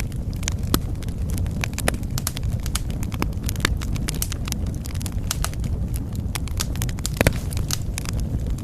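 Wood fire crackling in a fireplace: irregular sharp pops and snaps over a steady low rumble of the flames, with a louder pop near the end.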